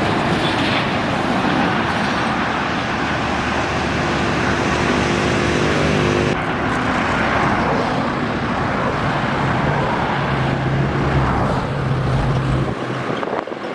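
Heavy highway traffic passing close by, with trucks' engines droning under loud tyre and road noise. The sound changes abruptly about six seconds in and eases off just before the end.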